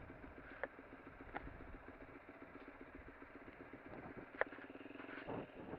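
Lexmoto LXR motorcycle engine running quietly, a faint steady hum, with a few sharp faint clicks.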